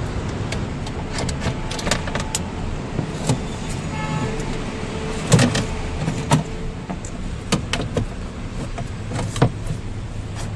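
Sharp metallic clicks and knocks from hands and tools working on a car door's window regulator, with a brief steady whine starting about four seconds in.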